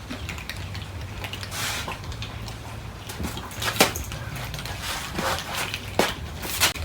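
Cats eating: scattered short noises and a few sharp clicks over a low steady hum.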